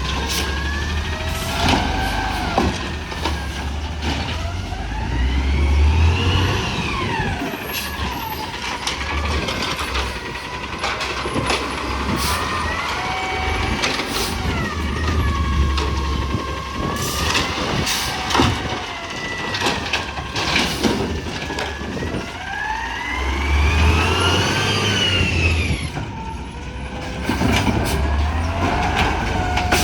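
Peterbilt 320 recycling truck's diesel engine revving up and falling back several times, with scattered sharp knocks in between.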